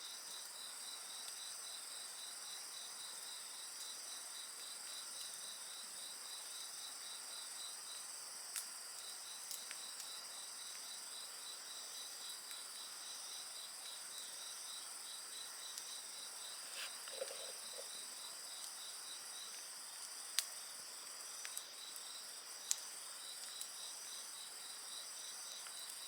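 Night insects chirring steadily in several high-pitched layers, one with a rapid, even pulsing. A few sharp crackles from a wood campfire break through now and then.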